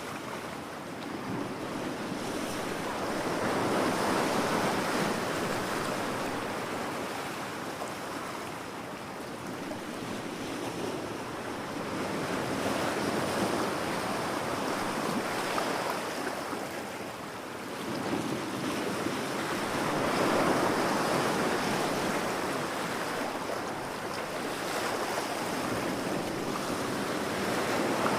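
Ocean waves breaking and washing up a beach, the surf swelling and ebbing in slow surges about every eight seconds.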